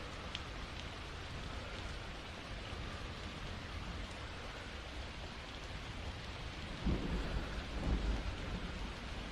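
Steady rain, with a low roll of thunder rising about seven seconds in and rumbling for a couple of seconds.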